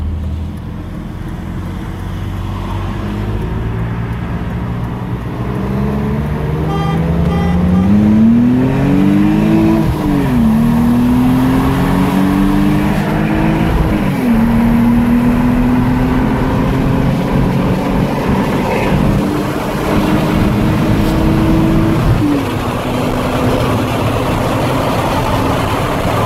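BMW Z3 2.8's straight-six engine, heard from inside the cabin, accelerating through the gears: the revs climb steadily, drop sharply at upshifts about ten, fourteen and twenty-two seconds in, and climb again after each shift.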